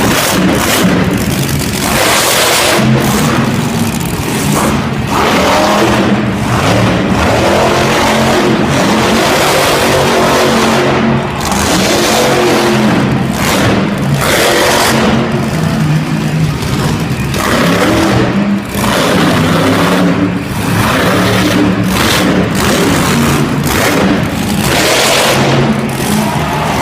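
Quad (ATV) engines revving hard, rising and falling over and over during a freestyle run.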